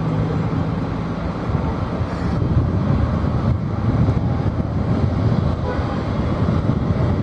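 Low engine rumble. A steady hum fades out about a second and a half in, then a denser rumbling noise continues.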